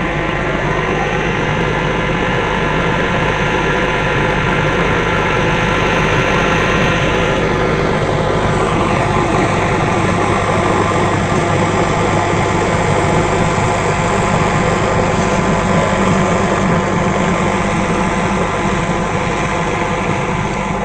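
John Deere tractor's diesel engine running steadily at an even speed.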